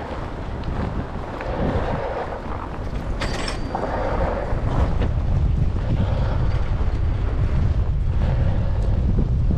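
Wind buffeting the microphone while cycling through a snowstorm: a steady low rumble that gets stronger about halfway through.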